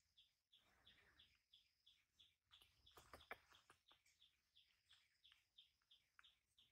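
Faint bird calling: a rapid, even series of short, high, falling chirps, about three a second, with a few soft clicks and rustles about three seconds in.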